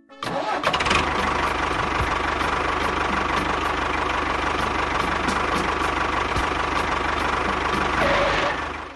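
An engine starts and runs at a steady idle with a fast low chugging, then stops near the end.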